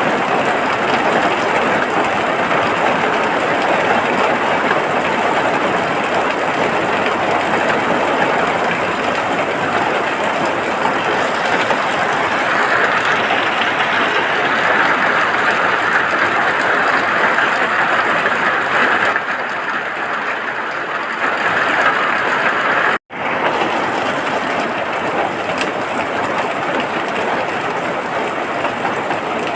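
Steady heavy rain, an even dense hiss of falling water, which cuts out for an instant about three-quarters of the way through and then carries on slightly quieter.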